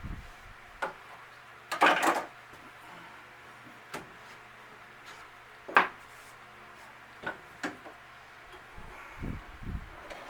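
Scattered knocks and clatter of wooden cabinet parts and hand tools being handled and set down. A louder cluster of knocks comes about two seconds in, then single sharp clicks and a few dull thumps near the end.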